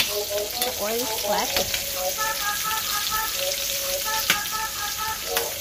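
Sliced onions and garlic sizzling steadily in hot oil in a stainless steel pan as they sauté. A melody of short notes plays along from about two seconds in, and there is a single sharp knock just after four seconds.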